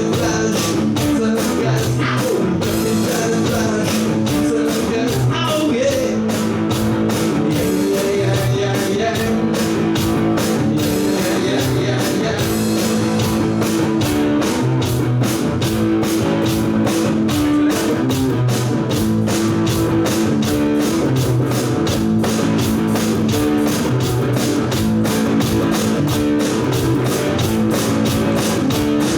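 Rock band playing live: guitars and bass over a drum kit keeping a steady beat.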